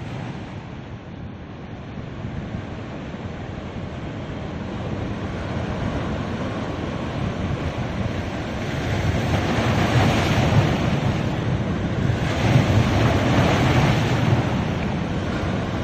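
Ocean surf washing onto a beach in a steady rush, swelling as two larger waves break, about nine and twelve seconds in.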